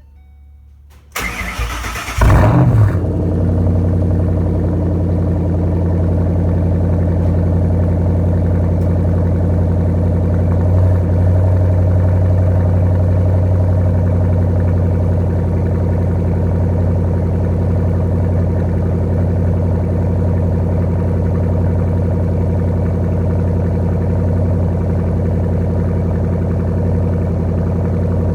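2011 Shelby GT500's supercharged 5.4-litre V8 through a Flowmaster Outlaw exhaust, cold-started after two weeks unstarted: the starter cranks about a second in, the engine catches with a brief flare, then settles into a steady idle.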